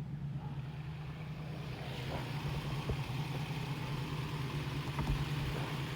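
TVR Chimaera's 4.5-litre V8 idling steadily, a low even hum with a faint hiss over it from about two seconds in.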